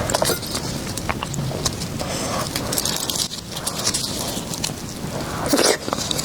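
Close-miked eating sounds: wet chewing with a dense, irregular run of small clicks and crackles.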